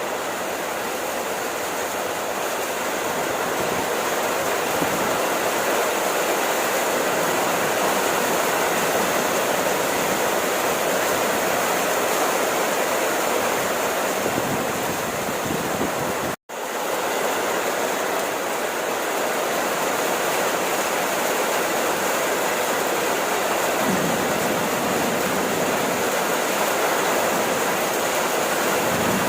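Steady rain falling, an even hiss with no let-up. It cuts out for an instant just past halfway, then resumes at the same level.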